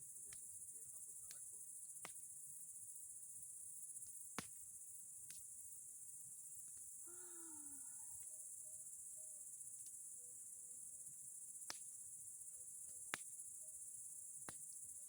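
Crickets chirping in a steady high-pitched trill, with a few sharp single pops from a bonfire of boards and pine cones burning down. A short faint call with a falling pitch comes about halfway through.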